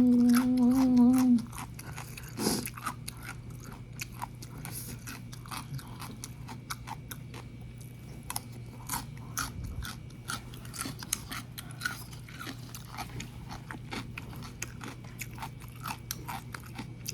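Close-up eating of instant noodles: chewing with many small, wet mouth clicks and smacks, opening with a short hummed "mmm". A faint steady low hum lies underneath.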